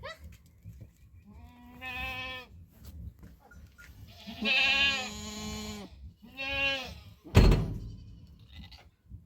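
Goats bleating: three calls, the middle one the longest, then a sharp thump about seven seconds in, the loudest sound.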